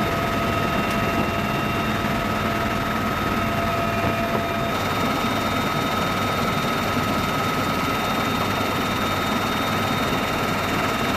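Military helicopter running steadily in flight, an even wash of rotor and engine noise with steady high-pitched whines over it; one of the lower whines stops a little before halfway through.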